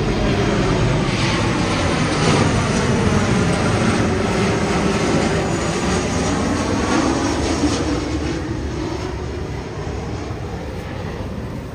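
Jet airliner passing overhead, its engine noise loud with tones sliding down in pitch as it goes by, then fading over the last few seconds.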